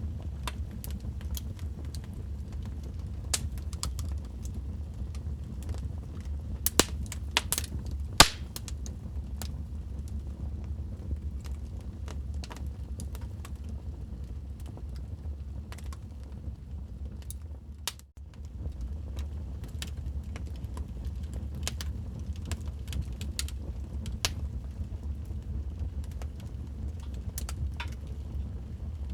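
Wood fire in a fireplace crackling, with frequent small pops and a few louder snaps about a quarter of the way through, over a steady low rumble of the burning fire. The sound briefly dips about two-thirds of the way through.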